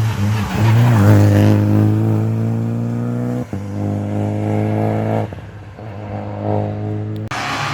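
Rally car accelerating hard on a wet special stage, its engine climbing in pitch, with a quick gearshift about three and a half seconds in, then lifting off about five seconds in. A rush of noise comes in near the end.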